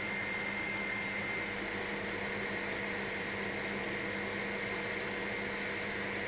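Steady drone of a helicopter in cruising flight, heard from inside the cabin, with a few constant hum tones over even noise.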